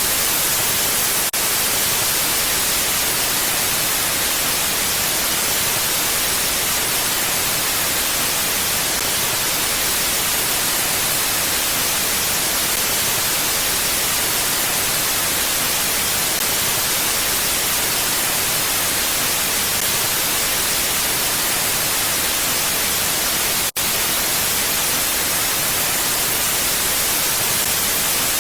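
Wind rushing steadily as an even, unbroken hiss, with no distinct gusts. It cuts out for an instant about 24 seconds in.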